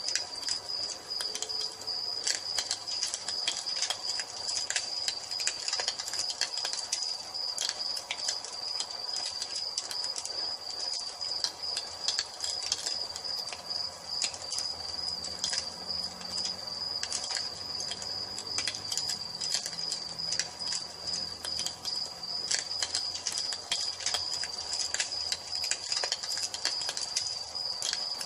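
Wood fire crackling with frequent sharp pops, over a steady high-pitched trill of crickets.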